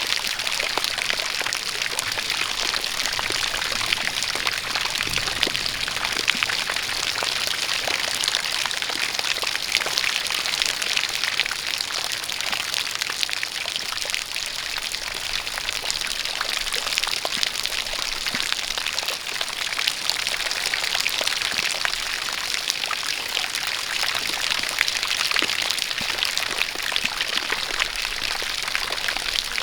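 Steady rain falling, with a stream of water pouring and splashing, a continuous hiss dotted with fine drop ticks.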